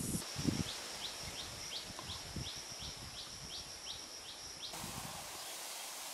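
A bird repeating a short, high call about three times a second, over a steady outdoor hiss with a few low thumps. The calls stop with a cut a little before the end, leaving only an even hiss.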